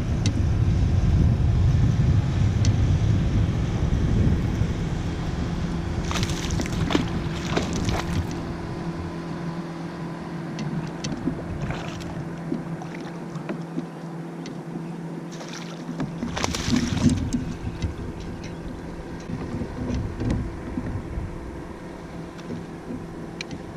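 Kayak on the water with wind buffeting the microphone; the wind rumble fades after the first several seconds. A steady low hum runs under it, and a few short clatters or splashes come, the loudest about two-thirds of the way through.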